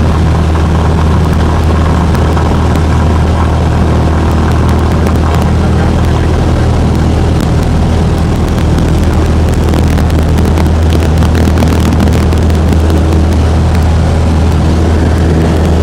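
Cessna 172's piston engine and propeller droning steadily as heard from inside the cockpit, a deep even hum with a few light ticks scattered through it.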